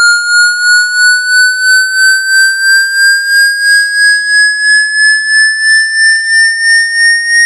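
Electronic water-eject tone for drying a phone's charging port: a single steady tone rising slowly in pitch, pulsing about three times a second.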